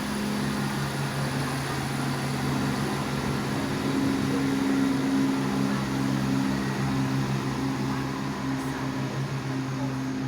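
Class 170 Turbostar diesel multiple unit's engines running as it departs: a steady hum of several held low tones, swelling a little about four to five seconds in.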